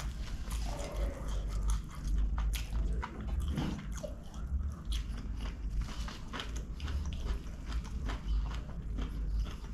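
Close-miked chewing of a mouthful of chicken kottu, with many quick irregular mouth clicks and crunches.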